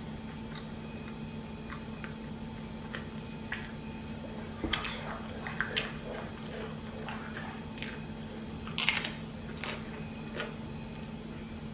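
Eating sounds of a chicken taco in a Doritos shell: bites and wet chewing with scattered crunches, the loudest about nine seconds in, over a steady low hum.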